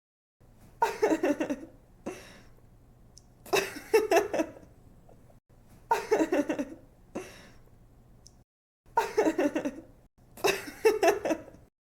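A young woman laughing in giggly bursts of quick 'ha-ha' pulses, about five bursts with short pauses between them, repeating as a loop.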